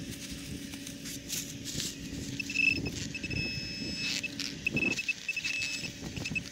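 Digging in soil with a hand tool, scraping and crunching in short strokes over a low steady hum. From about two and a half seconds in, a metal detector pinpointer sounds a high steady tone in on-and-off stretches as it closes in on the buried coin.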